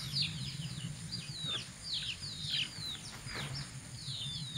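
Birds chirping: many quick downward-sweeping chirps, several a second, over a steady low hum.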